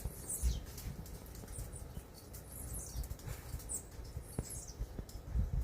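Small birds chirping: short, high-pitched chirps that slide down in pitch, repeated several times, over a low rumble.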